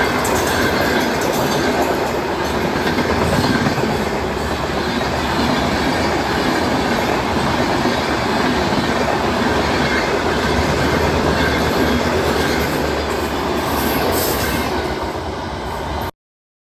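Train running on the rails: a steady, loud rumble and clatter of wheels on track that cuts off abruptly near the end.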